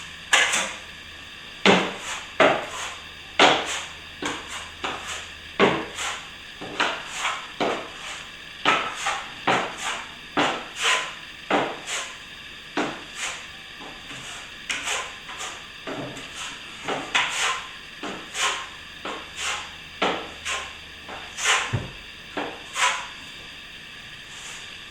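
Plastering hand tools knocking and scraping in a run of short, irregular clacks, one or two a second.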